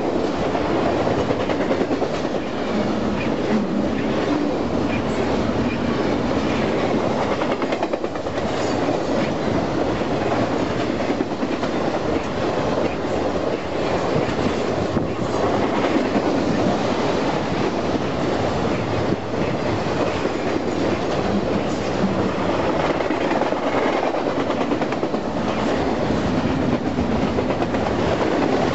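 Union Pacific intermodal freight train rolling past, its cars' steel wheels clacking over the rail joints in a steady, continuous rumble.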